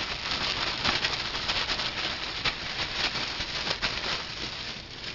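A bag holding a piece of chicken and dry batter mix being shaken to coat the chicken: a continuous rustling rattle made of many small clicks, easing off a little near the end.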